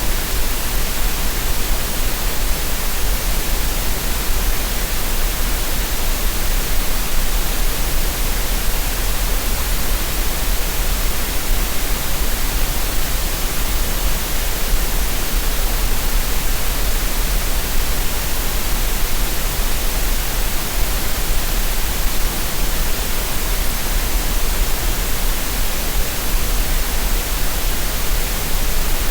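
Continuous synthetic green noise: a steady, unchanging hiss with no events or rhythm, played as a masking sound for relaxation and tinnitus.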